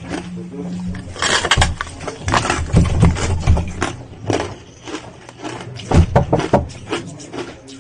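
Ice being chewed, a rapid irregular series of crunches, loudest about six seconds in.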